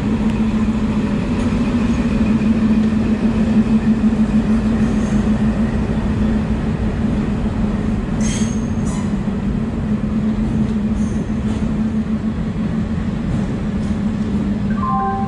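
Passenger train pulling slowly into the station as the locomotive and then the coaches roll past, with a steady low drone over the rumble of wheels on rail. Brief high squeals come about eight seconds in and again around eleven seconds as the train slows.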